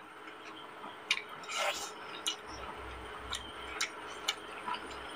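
Close-miked eating sounds of chicken curry and rice eaten by hand: about half a dozen irregular wet clicks and smacks of chewing, over a low steady background hiss.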